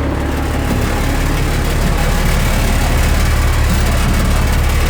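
Military truck's inline-six multi-fuel engine running under load in a low gear as the truck creeps forward, getting gradually louder.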